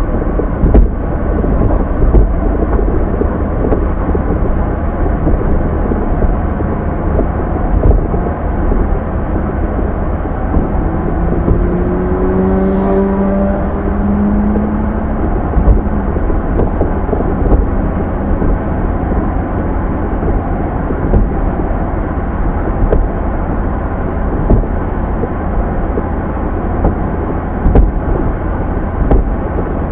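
Car on the move, heard from the dashcam inside: a steady low rumble of road and tyre noise with scattered short knocks from the road surface. About halfway through, a hum rises in pitch for a few seconds.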